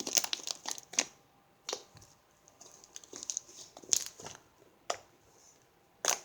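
Homemade fluffy slime being squished and stretched by hand, giving a run of small crackling pops at first, then single sharp pops and clicks about a second apart.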